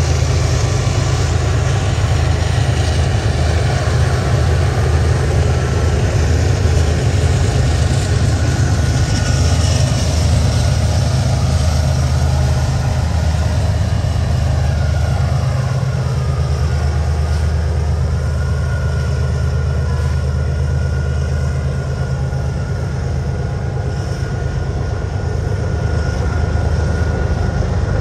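BNSF diesel locomotives hauling a double-stack container train up a steep grade: a loud, steady, deep engine drone with the rumble of the train.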